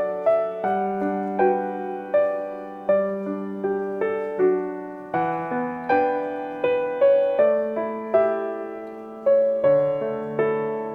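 Background music: a gentle, slow piano melody, its notes plucked out one by one over held bass notes.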